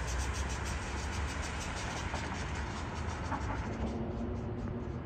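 Amtrak Hiawatha passenger train rumbling as it pulls away into the distance, with a fast, even high-pitched ticking over it that fades near the end.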